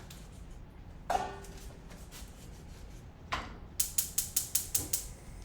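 Kitchen knife cutting through pineapple on a cutting board: a single strike a little after three seconds, then a quick run of about eight sharp chops, some seven a second, near the end.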